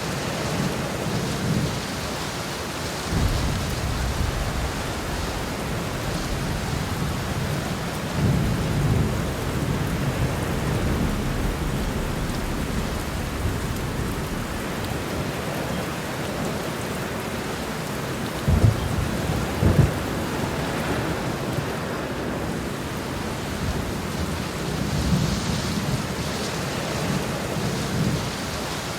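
Heavy rain pouring steadily through a thunderstorm, with thunder rumbling several times: low rolls about three and eight seconds in, two sharper thunder cracks close together a little past halfway, and a longer roll near the end.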